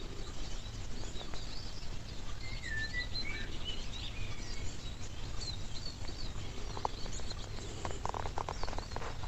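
Several small birds chirping and singing, short high calls scattered throughout, over a steady low rumble. A quick run of sharp clicks comes near the end.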